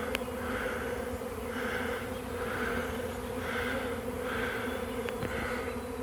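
A honey bee swarm in flight: many bees buzzing together in a steady, dense hum.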